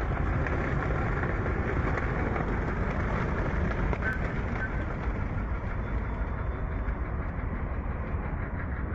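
Steady rushing roar of a waterfall, a dense, unbroken wash of water noise heavy in the low end.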